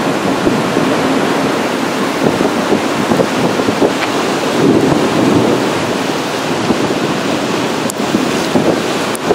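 Heavy thunderstorm rain and high wind, a steady loud rushing roar.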